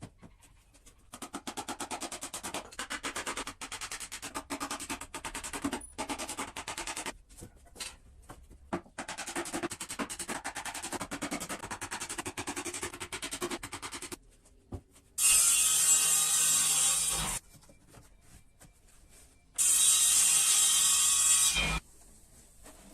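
Fast, repeated hand strokes rubbing over wood, like sanding or brushing, in two long runs. Then two loud, steady hissing bursts of about two seconds each from a power tool.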